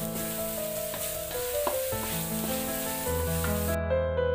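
Ground spice paste sizzling in a little hot oil in a metal wok as it is stirred with a wooden spatula, over background music with sustained notes. The sizzle cuts off suddenly near the end, leaving only the music.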